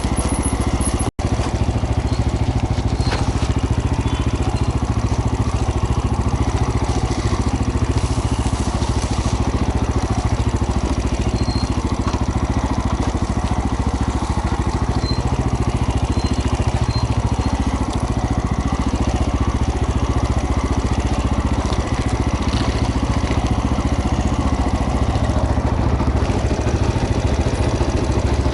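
Small trail motorcycle engine running steadily under way, with one brief break in the sound about a second in.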